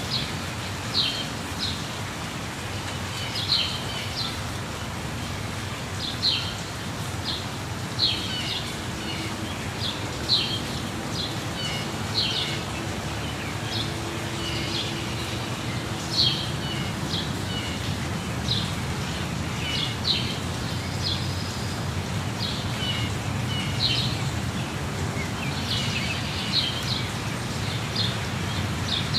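Birds giving short, high chirps every second or two over the steady rushing hiss of a waterfall.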